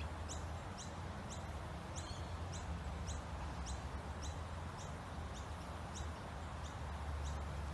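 A small bird gives a short, high chirp over and over, evenly, about three times a second, over a low steady rumble.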